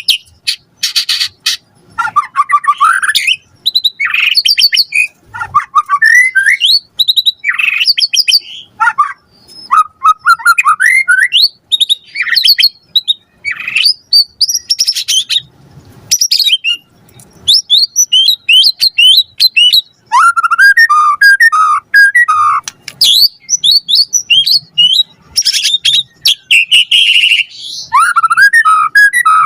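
White-rumped shama (murai batu) singing non-stop: a rapid, ever-changing run of loud whistles, chirps, trills and buzzy rattles, full of imitations of other birds' calls.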